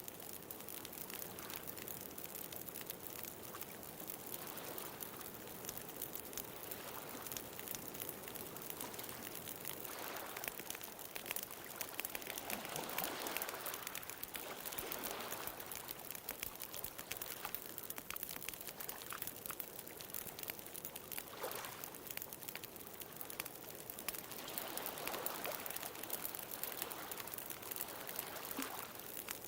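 Bonfire crackling with frequent small pops over gentle ocean waves washing in, the surf swelling about a third of the way in and again near the end.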